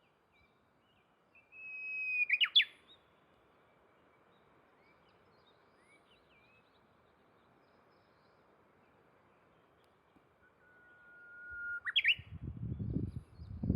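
Japanese bush warbler (uguisu) singing its 'hoo-hokekyo' song twice. Each song is a long held whistle that swells in loudness and ends in a quick flourish: the first about two seconds in, the second, lower one near the end. Low rumbling noise comes in near the end.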